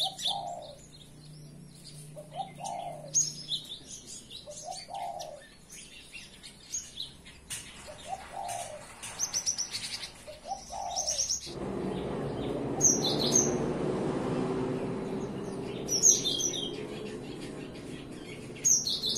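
Cinereous tit (gelatik batu) singing: high, quick chirps and short trills in repeated phrases, with a lower rising call about every two to three seconds in the first half. A steady rushing noise starts about two-thirds of the way in and runs under the song.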